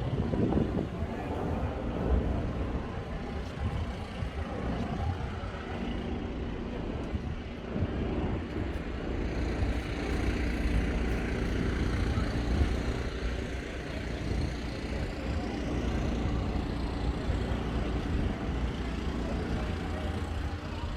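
A steady engine hum over a constant low rumble, with no sudden events.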